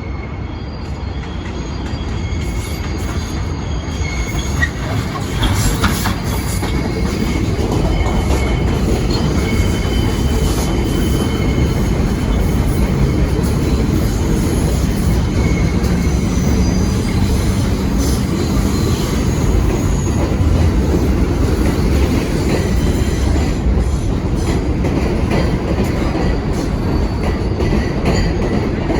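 New York City subway train running through the station, a steady rumble of wheels on rail with clickety-clack and high, thin wheel squeal. It grows louder over the first several seconds as the train comes close, then stays loud.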